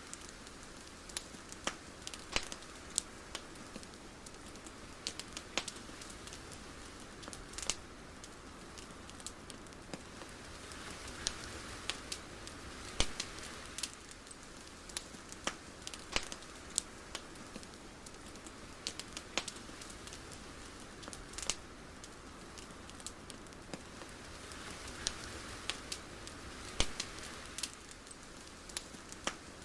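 Irregular sharp crackling clicks over a soft, steady hiss, which swells twice.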